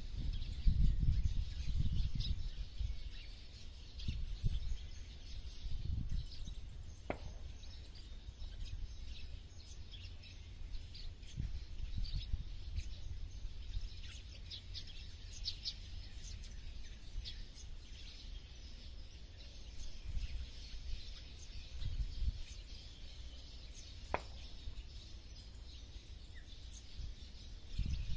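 Small songbirds chirping in short, scattered calls over a low outdoor rumble that is heaviest in the first two seconds and swells again later.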